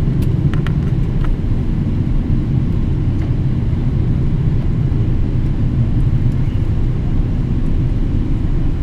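Boeing 777-300ER with its GE90 engines running, a steady low rumble with a few faint clicks.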